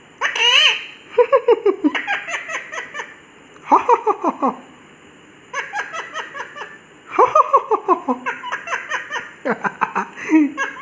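Pet parrot mimicking human laughter: several bursts of quick "ha-ha-ha" calls, opening with a short squawk.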